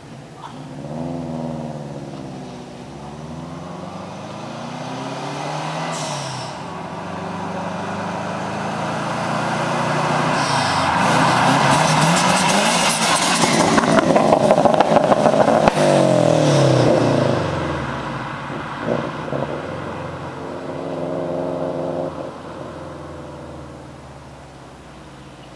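Subaru STi's turbocharged flat-four engine being revved several times through its exhaust. The pitch climbs and drops with each blip. The longest and loudest rev comes in the middle, with rapid crackling on top, before the engine falls back to a steady idle near the end.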